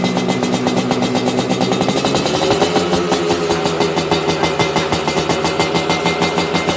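Yamaha RX King's two-stroke single-cylinder engine running through an aftermarket B-PAZZ exhaust, with a steady rapid beat. About two seconds in the revs rise slightly and then hold.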